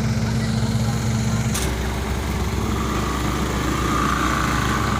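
Diesel engine of a heavy vehicle idling steadily. A sharp click comes about one and a half seconds in, after which the engine note changes, and a faint whine is heard near the end.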